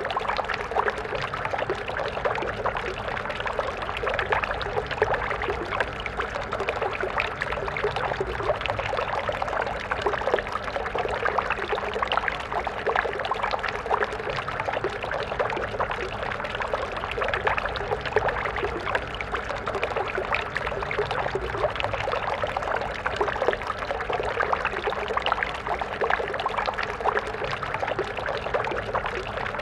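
Stream water flowing and burbling steadily, a dense, continuous splashing and trickling.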